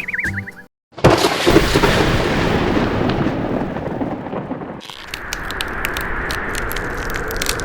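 A sudden loud rumbling boom, like thunder, that fades away over about four seconds. It is followed by a steady noisy hiss scattered with rapid sharp clicks.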